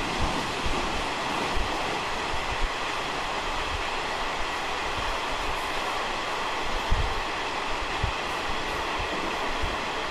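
Taiwan Railway SPK32700-series ordinary passenger coach running at about 70 km/h, heard from inside the car: a steady rumble and rail noise, with irregular low thumps from the wheels and one louder thump about seven seconds in.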